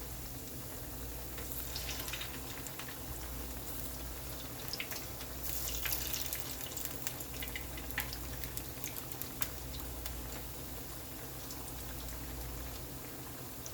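Chicken fritters frying in hot oil: a steady sizzle with scattered pops and crackles, a little busier about halfway through, over a steady low hum.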